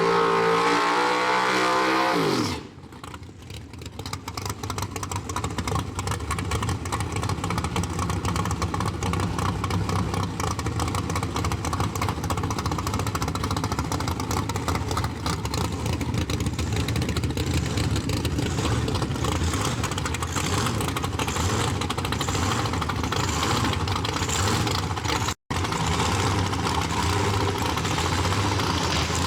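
Drag-race car engine at high revs whose pitch falls steeply about two and a half seconds in as it comes off the throttle, followed by a steady low engine rumble with a fast, uneven pulse, typical of a big race engine idling. The sound cuts out for an instant near the end.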